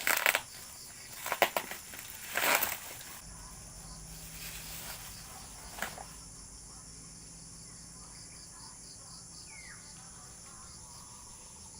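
Packaging being handled and crinkled, in a few short crackling bursts over the first three seconds and once more near six seconds, over a steady high chirring of insects.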